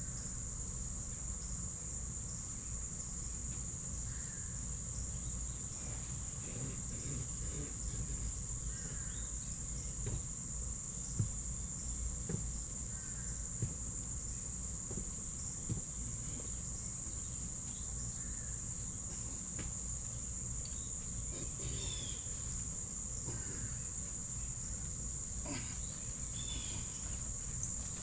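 A steady, unbroken, high-pitched insect chorus, with faint short bird chirps now and then and a few light clicks in the middle.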